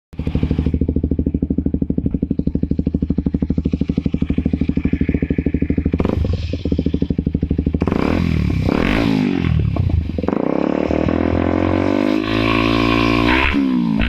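Kawasaki Ninja 250SL's single-cylinder four-stroke engine through an SC Project aftermarket exhaust, idling with an even pulsing beat for about six seconds, then revved repeatedly in quick rises and falls, with a longer held rev near the end.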